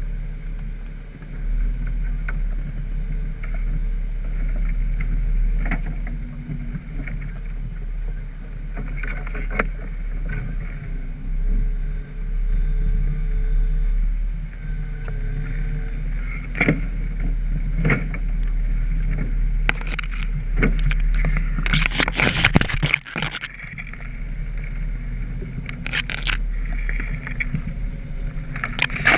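Jeep engine running low and steady while off-road in mud, with scattered knocks and scrapes and a burst of clatter about three quarters of the way through.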